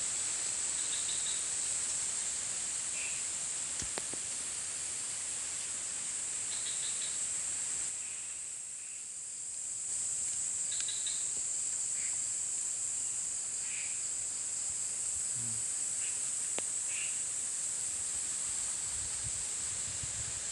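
Night-time tropical forest insect chorus: a steady, high-pitched shrill of crickets, with scattered short chirps from other calling animals, over a broad hiss that eases for a couple of seconds around the middle.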